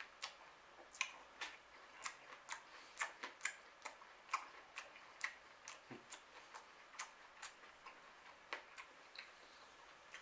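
Apple being chewed with the mouth closed: short, crisp crunches about two a second, uneven in strength, pausing shortly before the end.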